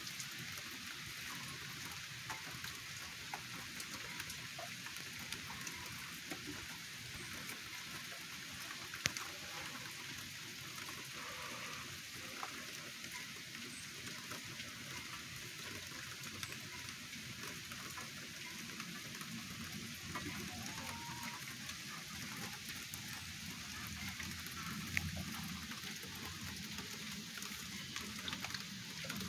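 Steady rain falling and pattering, with two louder drip ticks, one about nine seconds in and one near the end.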